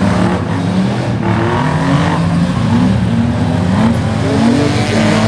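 Several banger-racing cars' engines revving and running together, their engine notes rising and falling against one another.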